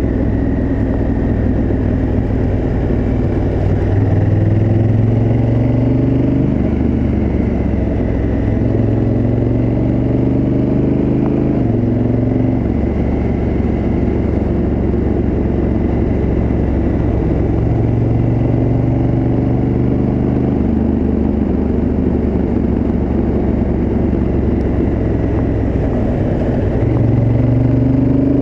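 Honda Africa Twin CRF1000L's parallel-twin engine through its stock exhaust, heard on board while riding. The revs rise under throttle several times, with a sudden drop in pitch about halfway through and another near the end, over a steady rush of wind noise.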